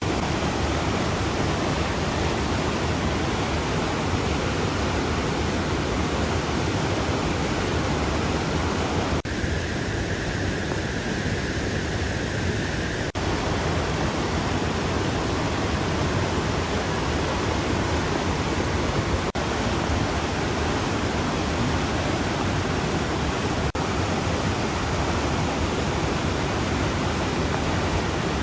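Mekong River waterfall rushing: a steady, full roar of falling water. Between about 9 and 13 seconds in the tone shifts briefly, and it shifts slightly again at a few later points.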